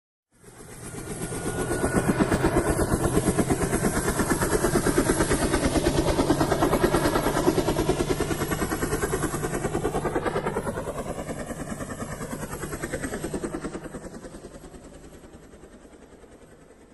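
Helicopter sound effect: a helicopter passing by, its rotor chopping in a fast, even beat. It fades in over the first couple of seconds, holds, then fades away toward the end.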